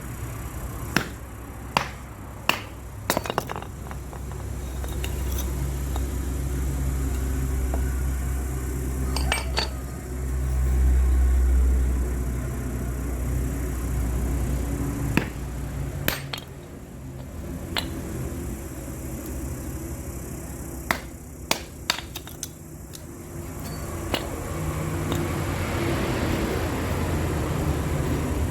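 Scattered sharp clinks and knocks of cookware and utensils, several in quick succession about a second in and again near the end, over a steady low rumble.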